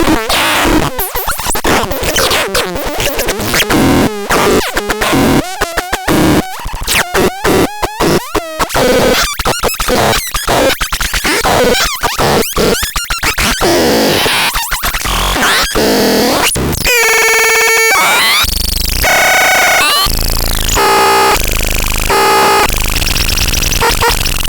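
Harsh electronic noise from the Mulbeek sound generator. It starts as rapid glitchy stuttering chops, turns after about two thirds into buzzy pitched tones that jump between steps, and ends with a rising-then-falling sweep.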